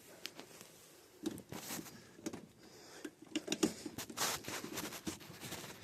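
Scattered light clicks, taps and scrapes of hands and tools working on the wiring of a breaker inside an air handler.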